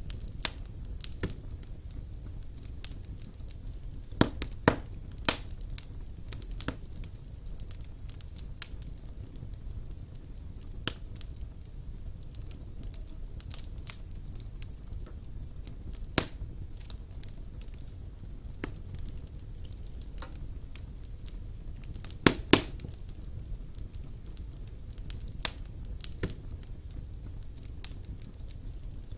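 Wood fire burning in a fireplace: irregular sharp crackles and pops over a steady low rumble of the flames, with the loudest pops in quick pairs a few seconds in and again about three-quarters of the way through.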